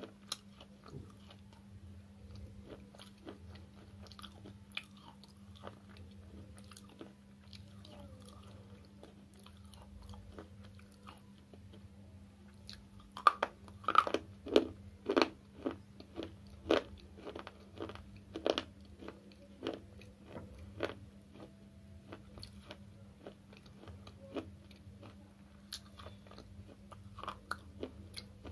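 Dry slate chips being bitten and chewed close to the microphone: faint crunching at first, then about halfway through a run of loud, sharp crunches, two or three a second, that die away over several seconds into quieter chewing.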